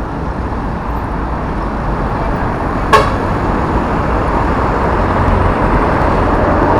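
Steady road traffic noise of a busy multi-lane highway, growing slowly louder. About three seconds in there is one sharp click with a short ring.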